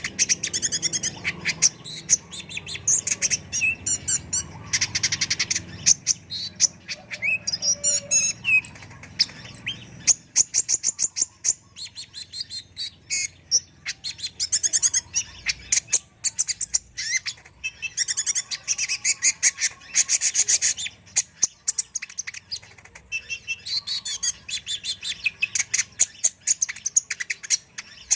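Kolibri ninja (Van Hasselt's sunbird) singing: fast, high-pitched chirping and rapid twittering trills in phrases broken by short pauses.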